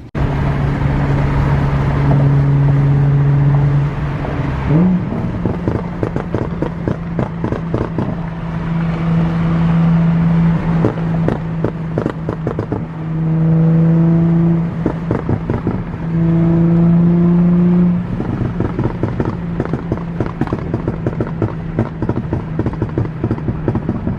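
Sports car engine running and revving, with frequent sharp exhaust pops and crackles from a pop-and-bang ('popcorn') tune.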